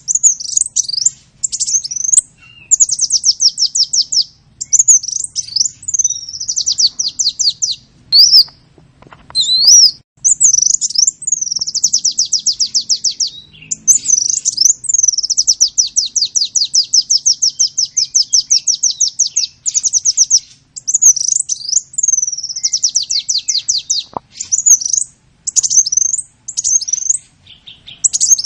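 A songbird singing loudly and continuously: long, fast trills of rapidly repeated high notes, linked by short swooping notes.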